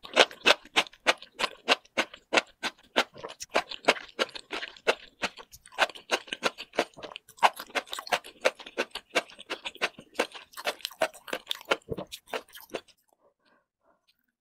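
Close-miked chewing of sauce-coated enoki mushrooms: a fast, steady run of sharp mouth clicks, about four a second, that stops a little before the end.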